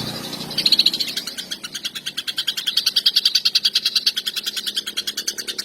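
Cucak ijo (green leafbird) singing a long, fast, even rattling trill of about a dozen notes a second, the kind of long 'shot' that keepers use to rouse other males.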